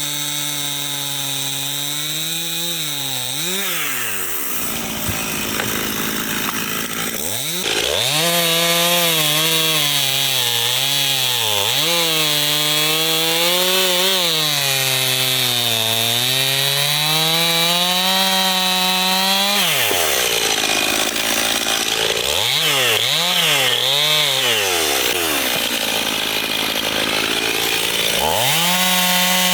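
Two-stroke chainsaw running at high revs and cutting wood, its engine note dipping and recovering as the chain bites. It drops back off the throttle twice, a few seconds in and again about two-thirds through, then revs up once more near the end.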